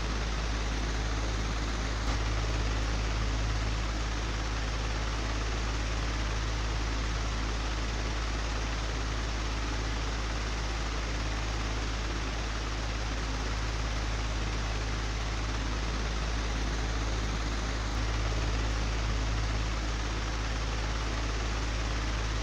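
Old, broken electric fan running steadily: a strong low motor hum under an even rush of air, swelling slightly a couple of times.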